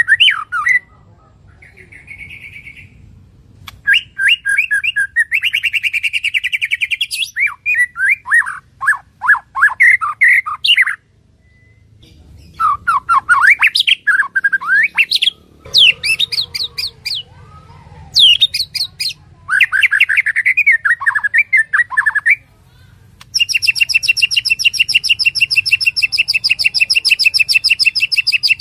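Songbird singing: a string of varied whistled and chattering phrases broken by short pauses, then from about 23 seconds in a fast, evenly repeated high note that keeps going.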